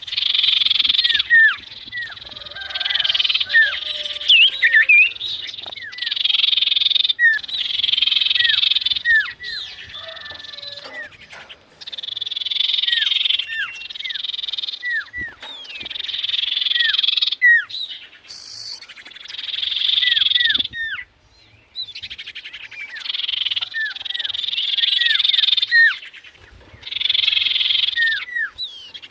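Sirtu bird calling over and over: bursts of loud, buzzy, rattling trill one to two seconds long, alternating with short whistles that slide downward in pitch.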